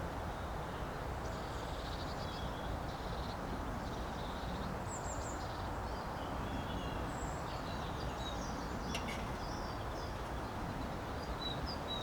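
Small birds chirping and giving short trills over a steady low background rumble of outdoor noise, with a couple of light clicks about nine seconds in.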